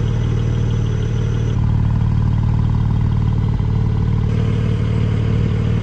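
Porsche 718 Cayman GT4's 4.0-litre flat-six engine idling steadily, its exhaust note holding one even pitch.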